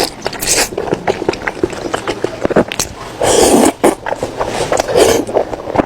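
Close-miked wet chewing and mouth smacking while eating beef tendon: a run of quick sticky clicks with a few louder, longer smacking bursts.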